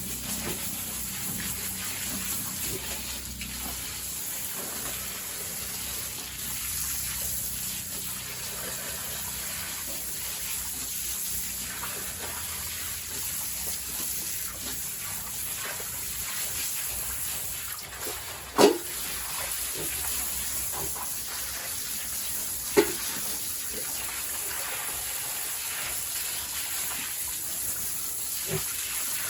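Water spraying steadily, as from a hose washing down a pig pen, with two brief sharp sounds about two-thirds of the way through, the first one loud.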